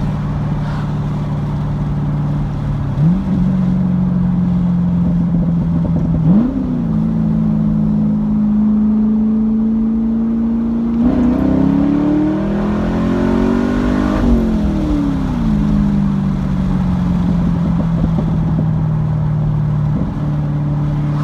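Camaro SS 1LE's 6.2-litre V8 running through an X-pipe with the resonators and mufflers deleted, giving a deep growl as the car drives along. The engine pitch jumps up briefly about three and six seconds in. From about eleven seconds in the pitch climbs under acceleration for a few seconds, then falls away as the throttle is lifted.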